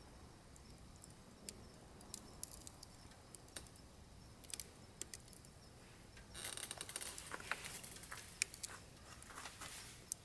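Firewood burning in a wood stove, crackling: scattered sharp pops, then from about six seconds in a denser spell of rapid crackling over a hiss lasting a few seconds.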